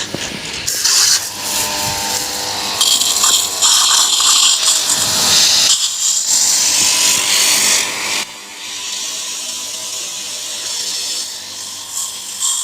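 Pressure washer running and spraying water onto a car: a loud, high-pitched rush of spray for about the first eight seconds, then quieter.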